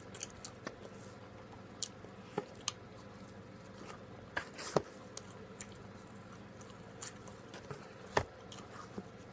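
A person chewing pizza close to the microphone: scattered short mouth clicks and smacks, the sharpest about halfway through and again past eight seconds, over a faint steady hum.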